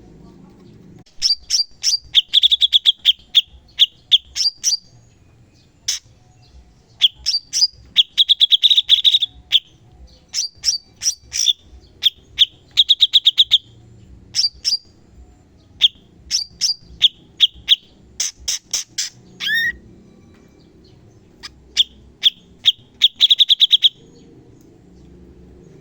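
Cucak cungkok singing in rapid, sharp bursts: phrases of quick chirps and fast trills, loud and high-pitched, separated by short pauses, starting about a second in and stopping shortly before the end.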